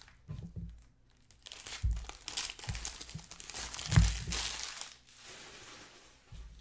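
Trading card pack wrappers being torn open and crinkled while the cards are handled, in irregular bursts, with a couple of soft thumps around 2 and 4 seconds in.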